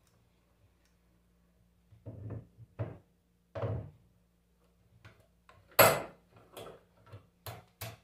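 Hand tools and the parts of a Bosch alternator knocking and clicking as it is taken apart: a few short knocks, the loudest about six seconds in, then a quick run of sharp clicks near the end.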